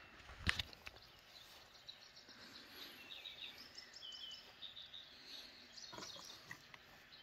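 Quiet outdoor ambience with faint bird chirps in the middle. A brief knock about half a second in, and a few soft clicks near the end.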